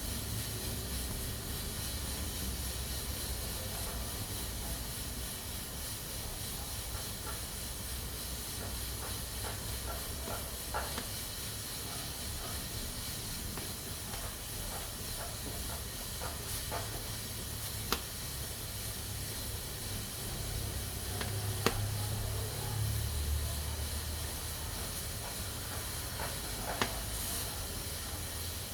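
Pressure cooker letting off steam in a steady hiss, with a few sharp clicks.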